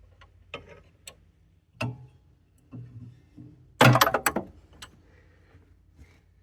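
Metal tools clicking and clinking against the engine's stuck pulley and socket, a handful of separate sharp clicks. About four seconds in comes a loud metallic clatter, a part dropping to the floor.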